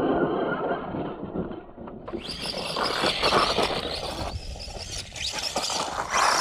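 Small-scale brushless RC car driving hard over rough ground: electric motor whine with tyres scrabbling and scraping. The sound gets brighter and scratchier from about two seconds in.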